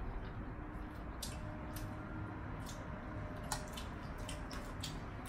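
Close-up eating sounds: wet chewing and mouth smacks from people eating spaghetti and fried chicken, heard as many short, scattered clicks over a steady low hum.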